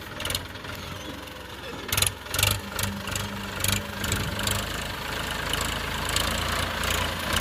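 Powertrac Euro 50 tractor's diesel engine idling steadily, with several sharp clicks between about two and four seconds in.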